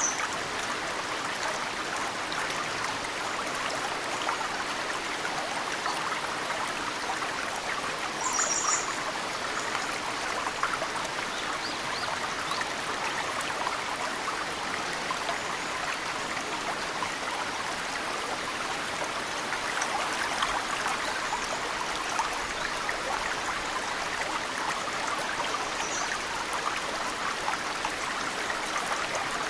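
Snow-fed mountain stream flowing steadily, with meltwater drops pattering into it. A small bird gives brief high chirps three times: at the start, about eight seconds in, and near the end.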